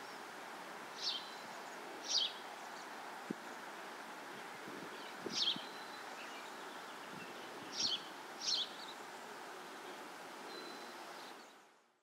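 Outdoor meadow ambience: a steady background hiss with five short, high bird chirps spread through it. The sound fades out near the end.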